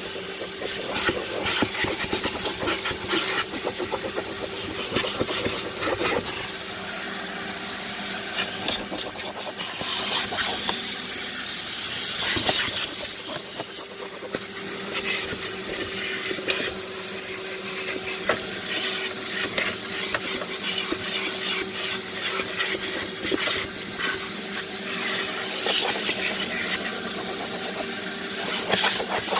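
A motor running steadily with a constant hum and a strong hiss of rushing air or spray, with scattered clicks and knocks throughout.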